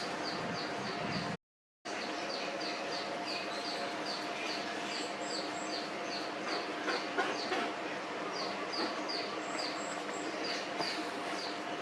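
Short, high, downward-falling peeps from a small animal, repeated about twice a second over steady background noise. The sound cuts out briefly about a second and a half in.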